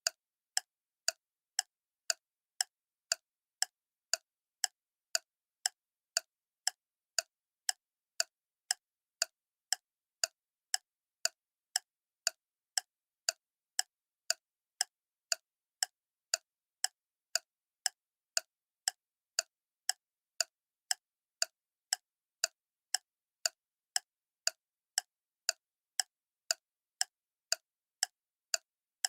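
Clock ticking steadily, about two sharp, even ticks a second with silence between them.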